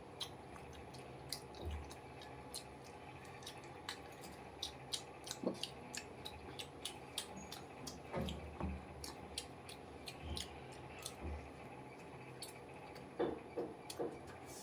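A person chewing food with wet, squishy mouth sounds and many small sharp clicks, with a louder cluster of mouth sounds near the end.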